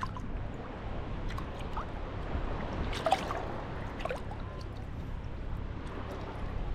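Small sea waves lapping and splashing at the shoreline, a steady wash of water with scattered little splashes and a brief sharper one about three seconds in.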